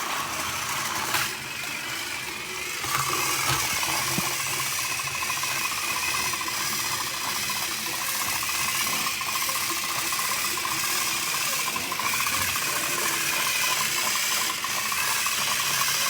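Small motorized toy train engines whirring steadily, their motors and plastic gears giving a continuous fine rattle as they run against each other in a strength contest. The sound gets a little louder about three seconds in.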